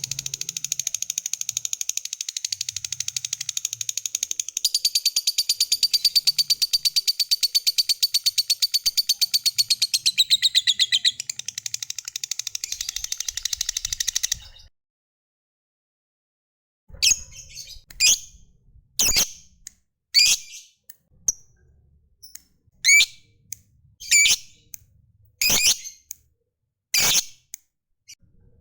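Lovebird's long, rapid trilling chatter, the prized 'ngekek panjang' of a singing bird, running fast and even for about fourteen seconds before stopping abruptly. After a short silence come single sharp high chirps, about one a second.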